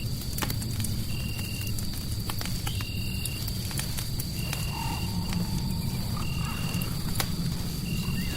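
Fireplace crackling with scattered sharp pops over a steady low rumble, layered with a short high-pitched call that repeats about every second and a half and a thin steady high tone, like frogs or insects calling at night.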